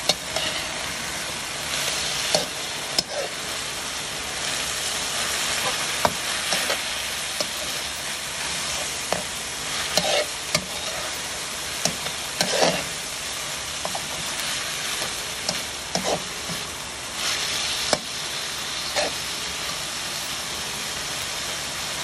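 Diced chicken breast with onion, garlic and red bell pepper sizzling in oil in a metal pan. A slotted metal spatula stirs it, scraping and knocking against the pan at irregular moments.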